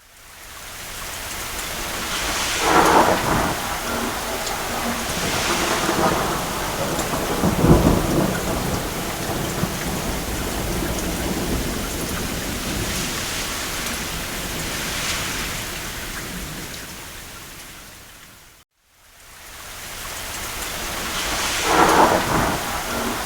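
Steady rain on a roof with distant thunder rolling in three times, the second roll the loudest and deepest. Shortly before the end the whole sound fades out to a moment of silence and fades back in.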